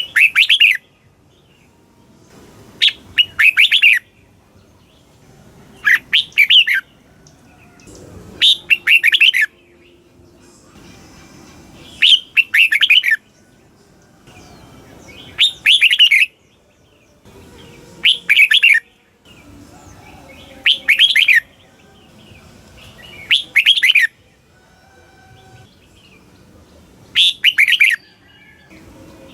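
Red-whiskered bulbul singing the same short phrase over and over, about every three seconds. Each phrase is a quick run of several notes lasting about a second.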